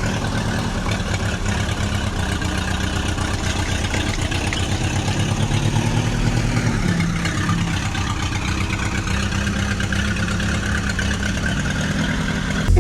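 Tractor engine running steadily with a fast chugging beat.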